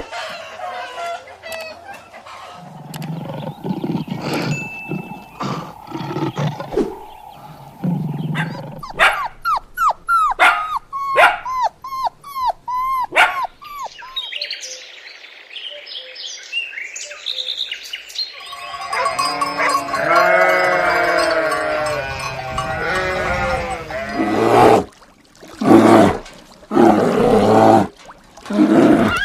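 A run of farm animal calls, the loudest a chorus of bleating from about two-thirds of the way in, with short repeated calls before it and abrupt cuts between the sounds.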